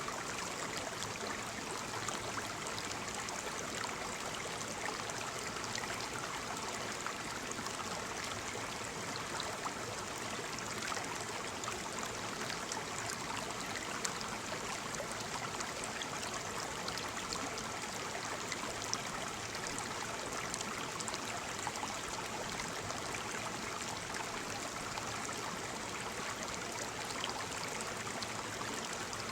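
Small waterfall splashing steadily, an even rush of falling water with little scattered splashes and droplets.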